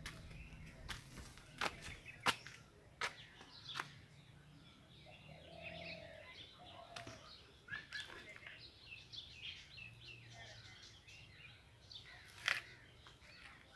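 Small birds chirping and twittering faintly and continually, with a few sharp clicks standing out above them, the loudest about two seconds in and near the end.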